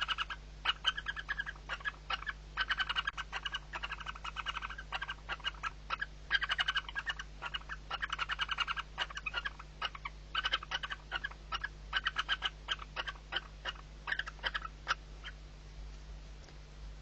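Barn owl chick giving rapid, pulsed calls in repeated bursts, a nestling's begging call at feeding. The calls stop about 15 seconds in.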